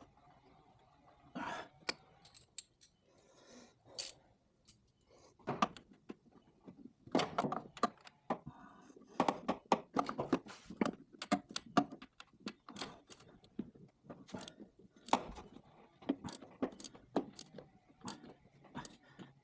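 Irregular metallic clinks, clatters and knocks of hand tools and small metal parts being handled and set down, coming in clusters.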